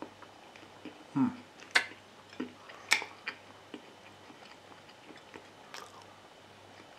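Close-up chewing of a soft chicken tortilla wrap, with scattered sharp clicks, the loudest two about two and three seconds in, from a metal fork against the plate.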